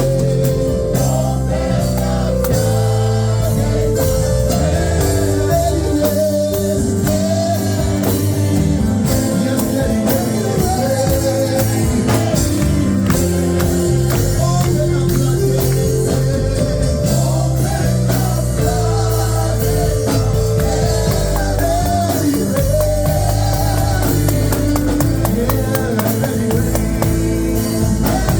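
Live gospel worship music: a band with drum kit, bass and keys playing steadily under a sung line.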